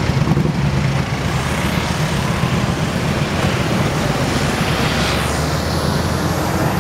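Motorbike engine running, with heavy wind noise on the microphone.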